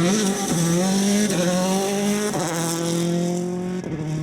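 Rally car engine pulling hard under acceleration, its pitch stepping down at about three gear changes roughly a second apart.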